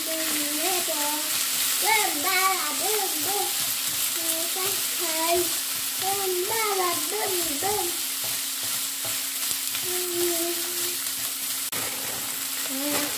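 Sliced pork, cabbage, onion and carrot sizzling as they stir-fry in a frying pan, stirred and turned with a spatula. A tune with a wavering pitch runs over the sizzling for much of the time.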